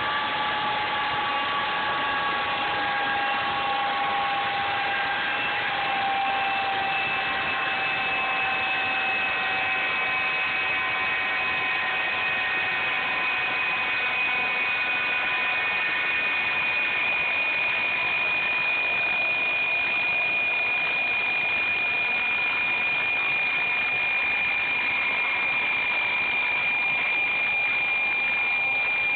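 Railway jet-engine snowblower running steadily with a loud rushing roar and a high whine. The whine sinks slightly in pitch over the first several seconds, then holds steady.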